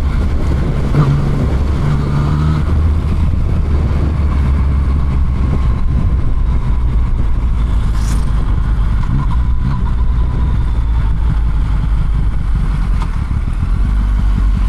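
Motorcycle riding along at a steady pace, seen from the rider's seat: the engine runs under a dense, steady low rumble of road and wind noise, with the engine note showing a little more clearly in the first couple of seconds.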